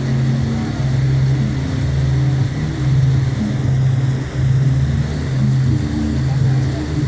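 Boat engine running under way: a low, steady drone that swells and dips about every three-quarters of a second.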